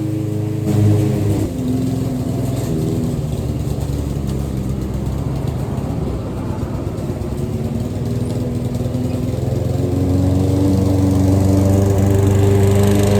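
Petrol lawn mower engine running under load; its pitch drops about a second and a half in and stays low and rough, then climbs back up and gets louder over the last few seconds. The owner says the mower is on its last leg.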